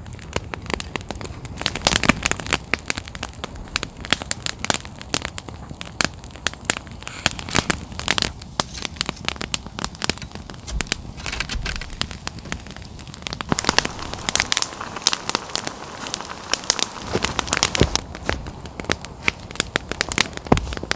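Campfire crackling, with frequent irregular sharp pops.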